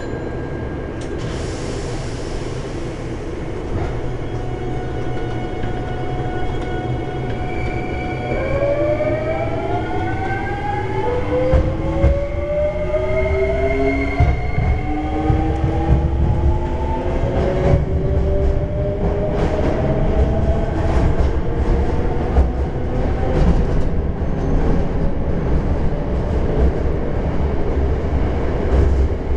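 Electric train pulling away in an underground station, heard from inside the front car. Its motors give a whine of several tones that rises steadily in pitch from about a third of the way in, as the train gathers speed, and the rumble of the wheels grows louder.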